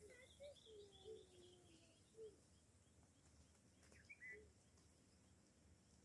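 Faint birdsong: scattered short low calls, one longer falling note in the first two seconds, and a few higher chirps and twitters, the last about four seconds in, over a quiet background.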